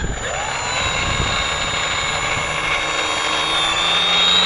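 Electric motor and propeller of a HobbyZone Super Cub RC plane whining as the throttle comes up: the pitch rises sharply in the first second, then holds steady, rising slightly again near the end. Wind noise on the microphone runs underneath.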